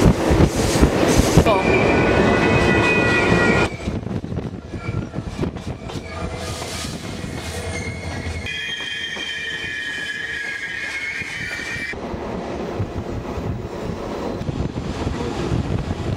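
Alaska Railroad passenger train running on the rails, with steady wheel-on-rail noise, loudest in the first four seconds. Twice the steel wheels squeal high and steady on a curve, first briefly about two seconds in, then for several seconds past the middle.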